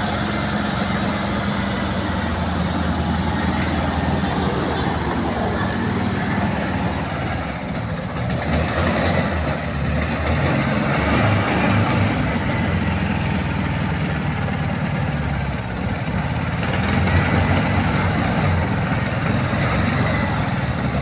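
Volkswagen Beetle engine running steadily, its level swelling a little now and then.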